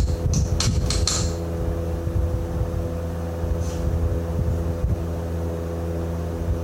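A steady low engine drone runs throughout, with a few sharp metallic clicks in the first second and one more about halfway through.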